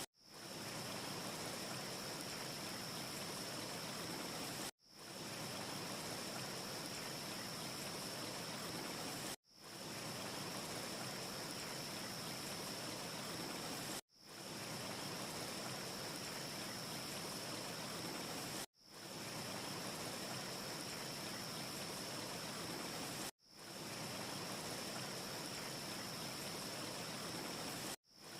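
Steady rushing ambience noise with a thin high hiss-tone on top and no distinct crackles. It drops to silence for a moment about every four and a half seconds and fades back in, like a short recording looped over and over.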